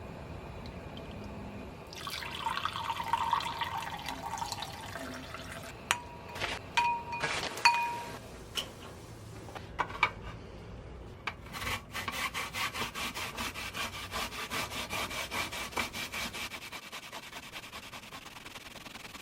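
Kitchen food-preparation sounds while making cold noodles: a rubbing, watery passage, then a few sharp clinks of dishware with brief rings, then a long run of quick, even strokes, several a second.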